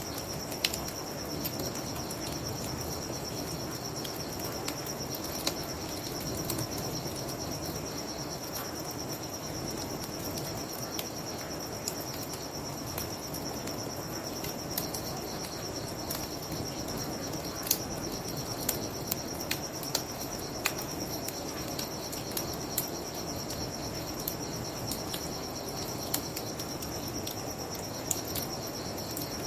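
Crickets chirping in a steady high trill, over a bonfire crackling with sharp pops scattered throughout, and a steady low rush of a flowing river.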